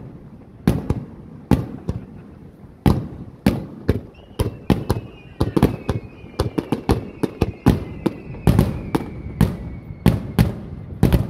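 Aerial fireworks shells bursting in sharp bangs at irregular intervals, coming thicker in the second half. A faint high tone falls slowly in pitch through the middle.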